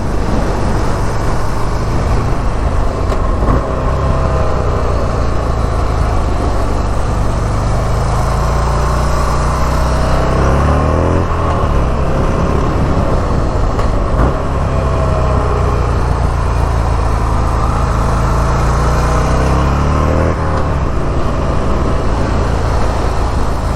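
Buell XB12S Lightning's air-cooled V-twin engine running under way on a lap. Its pitch falls and rises with the throttle, rising sharply about ten seconds in and again about twenty seconds in.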